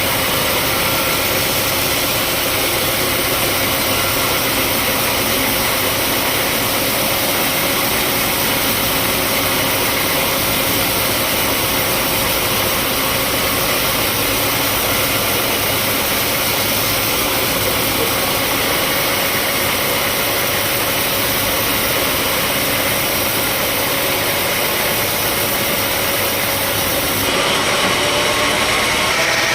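Sawmill machinery running steadily: a continuous engine drone with a faint steady whine, which shifts slightly near the end.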